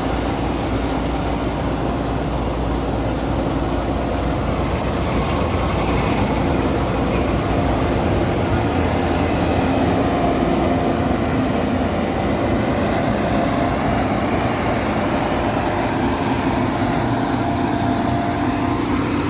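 Combine harvester running steadily while cutting wheat, a continuous engine and threshing drone with a few steady hum tones.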